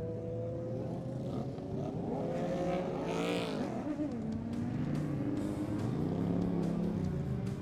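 Superbike engine revving, its pitch climbing and falling in repeated throttle blips, with the loudest, highest rev about three seconds in.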